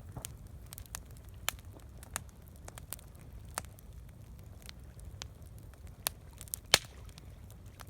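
Wood campfire crackling, with scattered sharp pops at irregular intervals and one louder pop about three quarters of the way through, over a steady low rumble.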